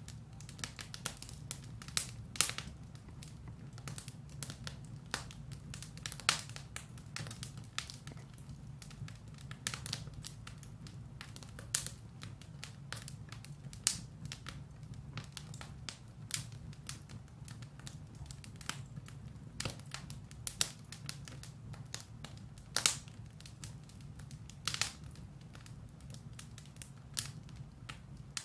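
Firewood burning in a fireplace: irregular crackles and sharp pops, some louder than others, over a steady low background.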